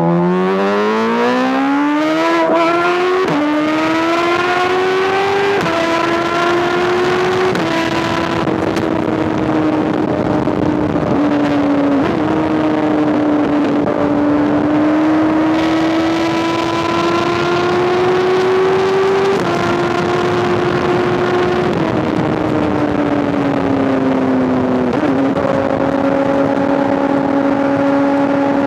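2005 Honda CBR1000RR inline-four with an SC-Project exhaust, accelerating hard through three quick upshifts, its pitch climbing and dropping at each gear change. It then holds a fairly steady pace, with a few more gear changes.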